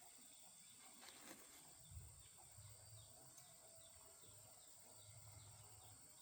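Near silence: faint background noise with a few soft clicks about a second in.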